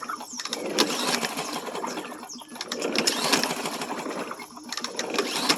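Troy-Bilt push mower engine cranked by hand with its recoil starter rope, about three pulls. Each pull spins the engine briefly with a rapid clattering whirr. The cylinder is flooded, and the cranking is meant to blow the fuel and water out of it.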